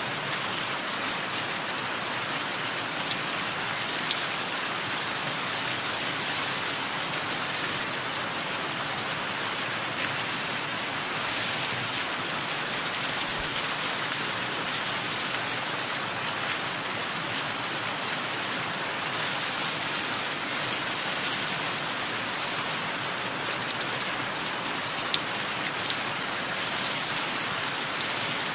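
Steady rain with small birds chirping over it: short high chirps and several quick trills scattered through.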